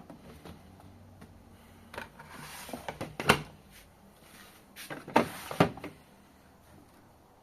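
Handling noises at a washing machine: a rustle ending in a sharp click a little over three seconds in, then another rustle with two sharp clicks about five seconds in, the snaps of the machine's door or detergent drawer being worked.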